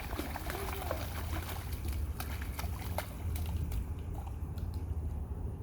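Children's boots splashing and sloshing in a rain puddle, in quick irregular splashes that thin out over the last couple of seconds, over a steady low rumble.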